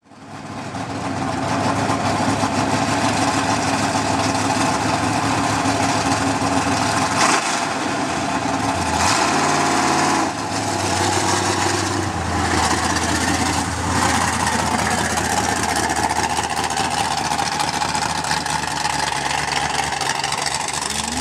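1975 Pontiac Trans Am V8 running on open headers, loud and steady as the car drives along the road, revving up around the middle and dropping back about ten seconds in.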